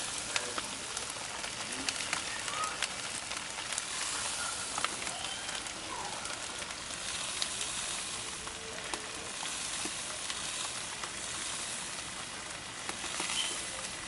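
Bacon frying, a steady sizzle with scattered small crackles and pops.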